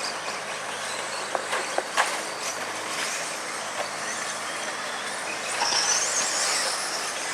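Radio-controlled stadium trucks racing on the track. There is a steady running noise with scattered clicks and knocks. From about five and a half seconds in, a high, wavering motor whine comes in.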